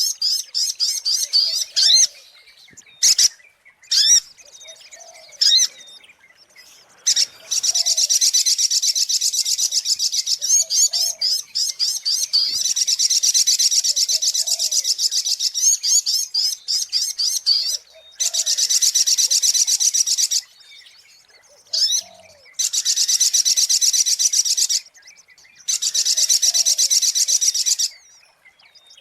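Little spiderhunter (sogok ontong) song used as a bird-lure call: long, high, very rapid trills of repeated chipping notes lasting a few seconds each, broken by short pauses with single sharp notes.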